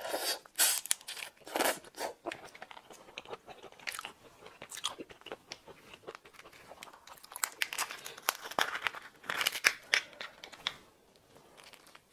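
Close-miked eating of raw shrimp: irregular wet crunching and chewing, with crackles of raw shrimp shell being broken and pulled apart.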